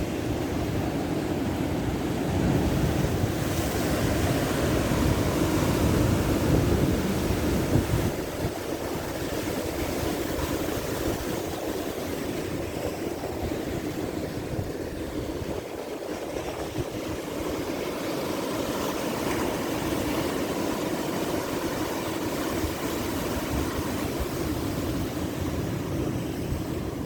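Ocean surf: a continuous rush of waves breaking and washing ashore, heavier and louder in the first few seconds, then settling into a steady wash.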